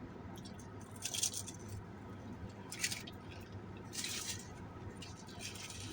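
Chewing a mouthful of fried chicken, heard as three short crunching sounds about one, three and four seconds in.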